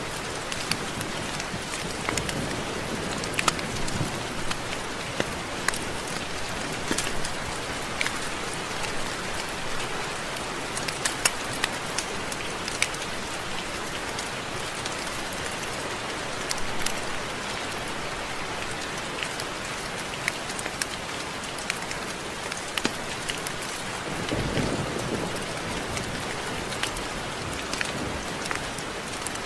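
Steady rain falling, a continuous hiss with many sharp ticks of individual drops striking close by, and a brief low rumble near the end.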